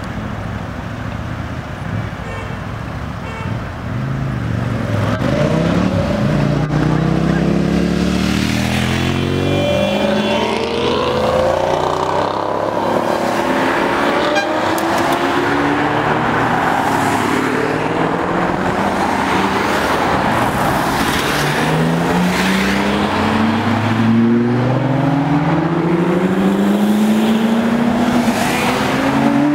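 Sports cars accelerating away one after another, each engine revving up with a rising pitch and the next pass overlapping the last. Quieter for the first few seconds, then louder from about four seconds in as the cars come through in a steady stream.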